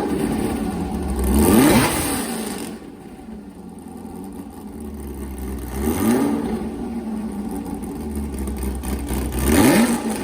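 GM LS3 6.2-litre V8 in a Corvair, through its tuned exhaust, revved up and let back down about four times: just at the start, about a second and a half in, around six seconds in, and near the end, settling to a lower, quieter running between.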